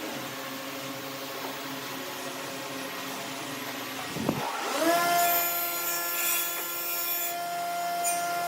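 Wood lathe's electric motor humming, then spinning up about four and a half seconds in after a click, with a quickly rising whine that levels off and runs at a steady pitch.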